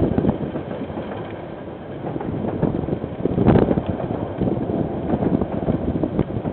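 A KiwiRail train passing: a continuous rumble with irregular rattling clatter from the wheels. It eases off briefly about two seconds in, then picks up again.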